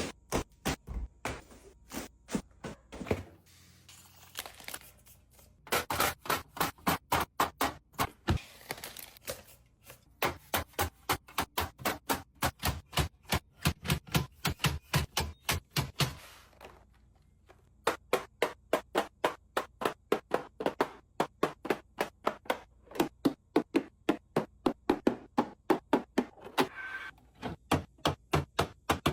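Fridge restocking: a fast, steady run of clicks and knocks, several a second, as plastic containers, lids and food items are set down and snapped shut, with short bursts of rustling packaging.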